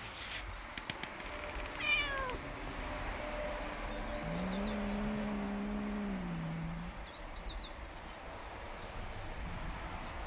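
Cat meowing: a short, high meow falling in pitch about two seconds in, then a long, low, drawn-out meow lasting about two and a half seconds.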